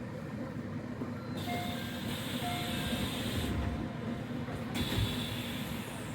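Train running on the rails: a steady rumble with faint whining tones, and a hissing rush that swells in for a few seconds in the middle.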